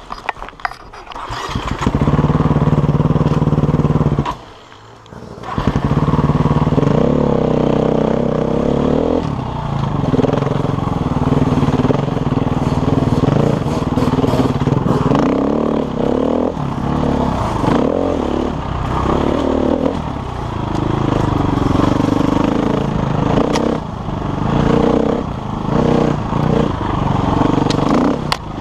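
KTM enduro dirt bike engine revving up and down as it is ridden. The engine drops away briefly about four seconds in, then picks up again.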